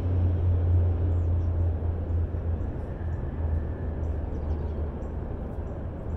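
A vehicle engine running: a steady low drone that slowly fades.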